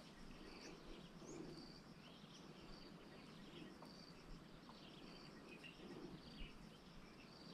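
Near silence: faint open-air ambience with a steady high insect drone and scattered small bird chirps.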